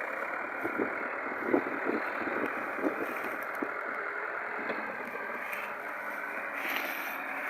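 A tractor engine running steadily, with a few short knocks in the first three seconds.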